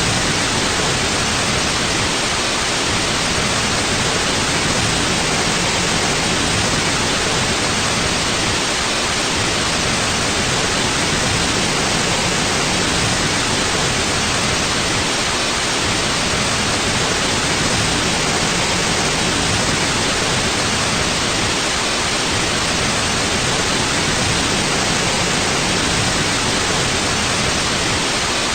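Steady, unchanging white noise: an even hiss with no rhythm or change.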